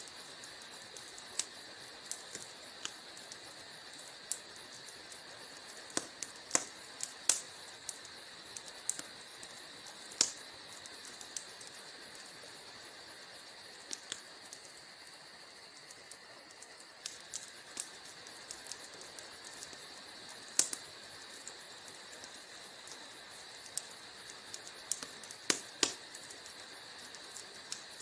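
Wood fire crackling in a fireplace: a steady hiss with irregular sharp pops and snaps, a handful of them much louder than the rest.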